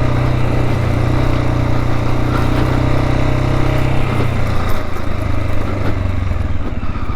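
Dual-sport motorcycle engine running at steady throttle while riding. About four seconds in, its note drops lower as the throttle eases off.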